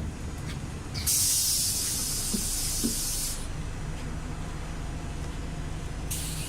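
Scania OmniLink CL94UB city bus: a loud hiss of compressed air from its pneumatic system lasting about two seconds, with a second hiss starting near the end, over the steady low hum of the running engine.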